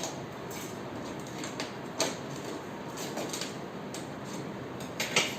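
A spoon being pushed through a hole in a disposable plastic bottle: rustling and scraping of plastic, with sharp clicks about two seconds in and again near the end, the last the loudest.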